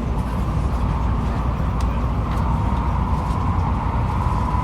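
Shinkansen bullet train running, heard from inside the passenger car: a steady low rumble with a faint, even hum above it and a few light ticks.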